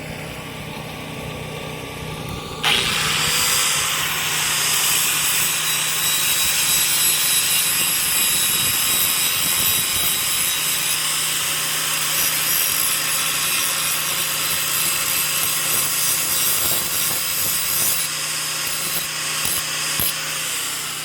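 Power grinder dressing the cutting edge of a riding-mower blade. The motor is already running; about three seconds in the wheel bites the steel with a loud, steady, hissing grind, which eases and stops near the end. It is a light touch-up sharpening that leaves just a little edge.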